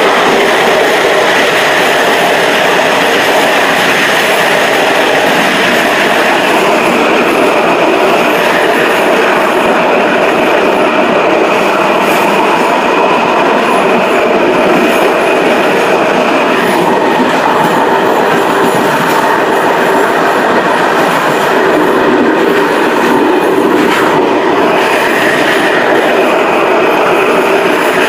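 Passenger train running on steel rails, heard from the rear of the last carriage: a steady, loud rolling noise of wheels on track with some ringing wheel tones and a few sharp clicks over rail joints.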